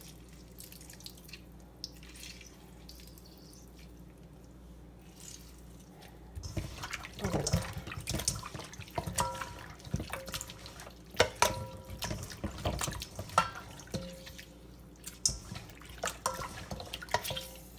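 Raw chicken pieces being rubbed with lemon and handled in water in a sink: wet splashing, dripping and irregular knocks, with short ringing clinks against the bowl. A faint steady hum for about the first six seconds, then the handling noise starts and runs on.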